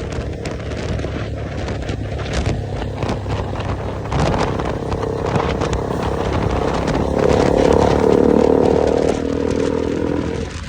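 Motorcycle engine running while under way, with road and wind noise. It grows louder through the middle and eases off shortly before the end.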